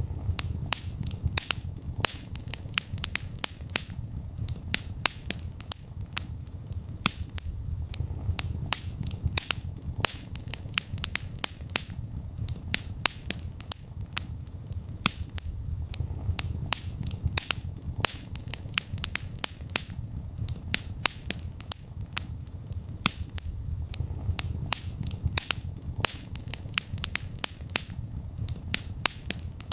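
Wood fire burning in a fireplace: a low rumble of flames under dense, irregular sharp crackles and pops.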